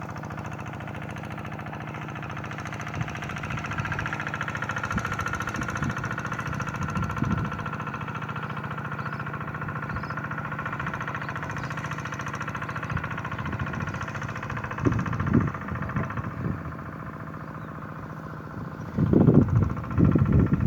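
Hand tractor's engine running steadily under load while ploughing a rice paddy, with a few louder low thuds near the end.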